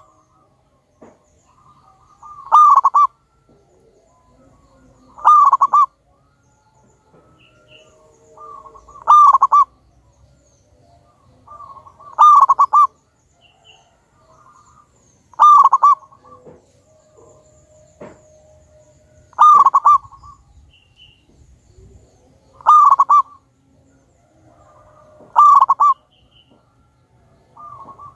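Zebra dove (perkutut) singing its cooing song over and over: a loud, short rolling phrase about every three seconds, each led in by a few softer notes.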